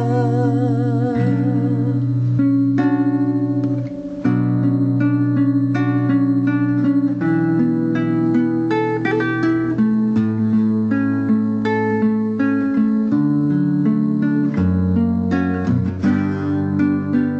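Acoustic guitar playing the instrumental break of a slow Indonesian love song, plucked notes over long low bass notes. A held sung note with vibrato ends about a second in.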